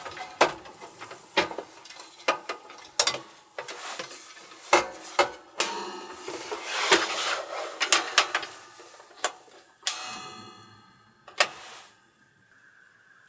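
Small hard objects being handled: an irregular run of clicks and knocks. About ten seconds in comes a clink that rings and dies away over about a second.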